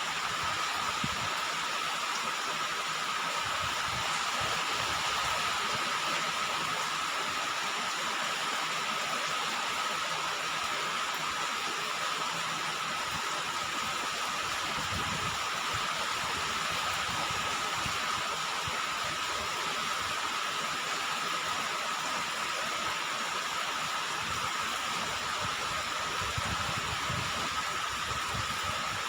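Steady rain falling on a roof: an even hiss of drops with no let-up, and a faint steady tone running through it.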